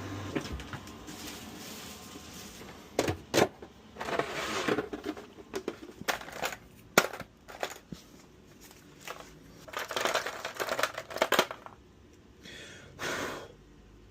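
Objects being handled at close range: scattered sharp clicks and knocks with several short bursts of rustling or crinkling.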